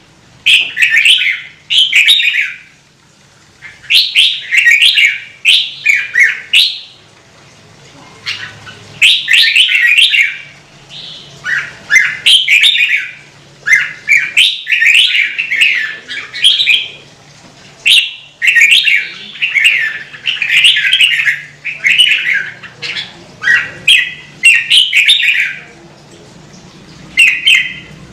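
Red-whiskered bulbul singing: short, loud, warbled phrases of under a second each, repeated in quick runs with brief pauses between them.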